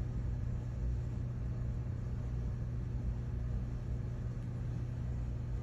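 Steady low hum of room background noise, with no other sound.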